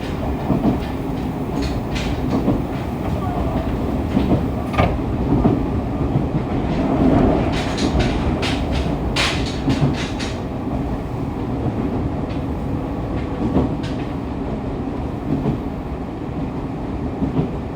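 Running noise inside a Fukuoka City Subway 2000-series car with Hitachi GTO-VVVF equipment, picked up at floor level: a steady rumble of wheels and running gear, with sharp clicks over rail joints, several in quick succession near the middle.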